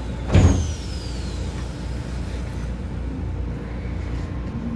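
Keisei 3000 series electric train running, heard from inside the car: a steady low rumble of wheels on rail. About half a second in comes a loud knock, followed by a thin high whine gliding down in pitch over about a second.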